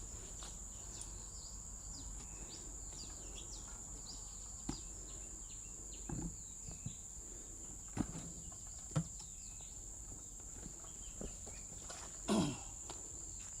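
Outdoor ambience: a steady high-pitched insect drone with scattered small bird chirps, and a few light knocks and clunks, the loudest about twelve seconds in.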